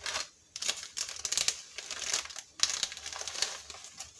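Dry, brittle rice paper sheets crackling and crinkling as they are handled and pulled apart, in two runs of crackles with a short pause between them.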